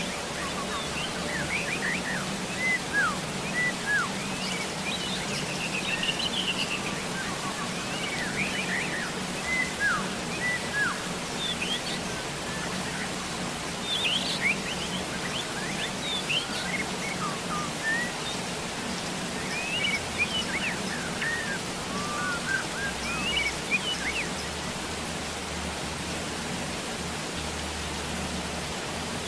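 Steady rain falling as an even hiss, with birds chirping and calling over it in quick, short notes, thinning out near the end.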